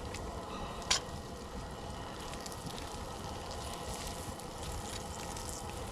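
Bratwurst sizzling on a grill grate over a crackling campfire, with one sharp pop about a second in.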